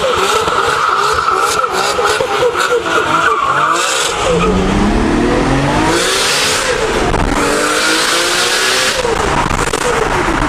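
Modified Nissan Skyline R34 GT-R: tyres squealing over an unevenly revving engine for about four seconds. Then its twin-turbo straight-six accelerates hard, the pitch climbing and starting over again after each gear change.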